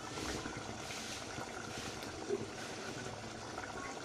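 Chicken curry simmering in its gravy in the pan, a steady bubbling hiss, with one light knock about two seconds in.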